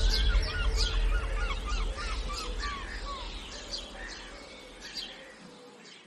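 A chorus of birds chirping and calling, with a quick run of short repeated chirps in the first few seconds, over a low rumble. All of it fades out gradually.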